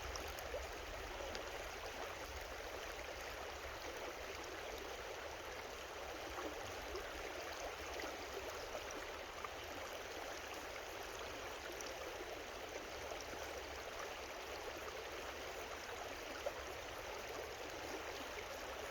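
Creek water running, a steady babble with no change in level, and a single faint click about 16 seconds in.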